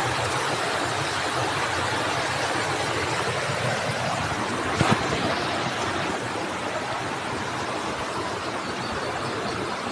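Waterfall rushing: a steady, even wash of falling water. A brief bump about five seconds in.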